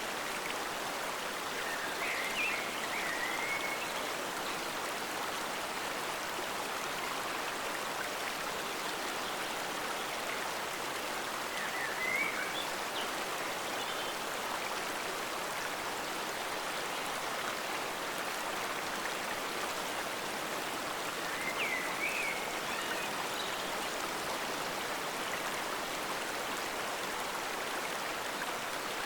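Forest stream flowing steadily, an even rush of running water. Brief high chirps break in three times, about two, twelve and twenty-two seconds in.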